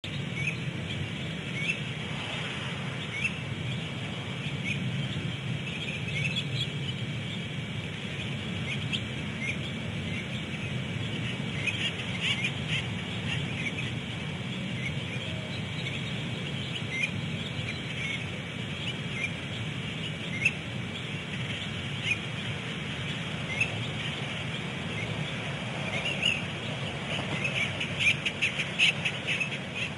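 Short bird chirps repeating every second or two over a steady low hum, with a quicker run of calls near the end.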